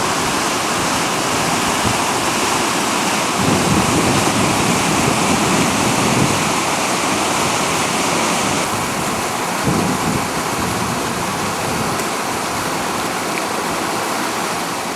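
Steam locomotive No. 40 working uphill: a loud, steady rushing hiss of steam and exhaust, swelling a few seconds in.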